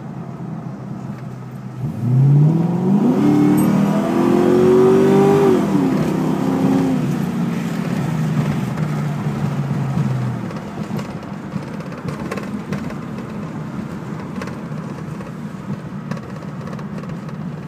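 2002 Mustang GT's 4.6-litre V8 under full-throttle acceleration, heard from inside the cabin: about two seconds in the engine note jumps and climbs. It dips and climbs again as the 4R70W automatic upshifts, twice, then settles and eases back to steady cruising about ten seconds in.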